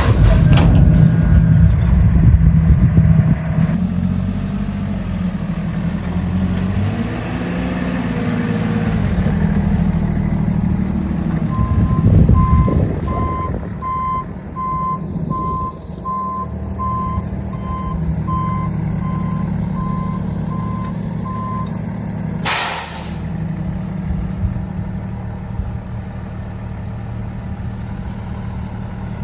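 Diesel engine of an International rear-loader garbage truck with a New Way body, running throughout with a surge in revs around 7 to 9 seconds in. Its reverse alarm beeps steadily for about ten seconds through the middle, then the air brakes let out a short, sharp hiss, and the engine settles to idle.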